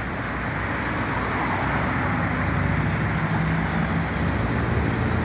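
An engine running steadily under a rushing noise, its low hum growing a little stronger in the second half.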